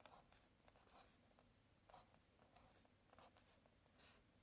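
Near silence: room tone with a few very faint, brief scratchy ticks about once a second.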